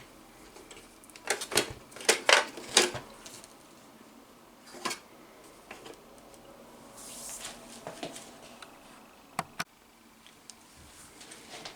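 Scattered clicks and knocks of a plastic spotlight housing being handled and taken apart: a cluster in the first few seconds, and two sharp clicks near the end.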